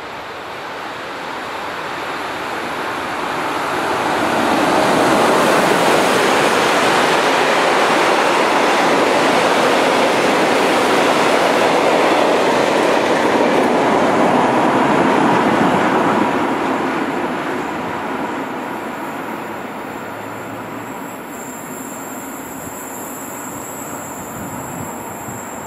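Freight train of tank wagons hauled by an NSB El 16 electric locomotive, approaching and passing at speed. A rising rush of wheels on rail grows for about five seconds, stays loud for about ten seconds as the wagons go by, then fades away.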